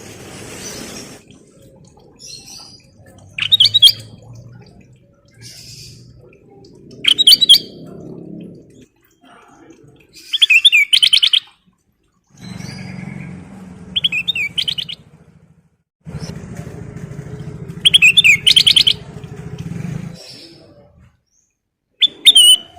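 Kutilang emas bulbul singing short, loud phrases of rapid repeated chirping notes, about six phrases a few seconds apart. A low steady hum runs underneath in the gaps.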